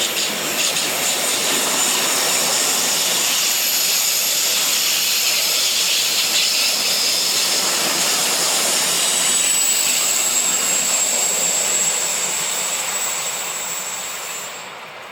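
Train passing on the track: a steady loud rush of wheels and rails with thin high-pitched wheel squeal above it, dying away over the last few seconds.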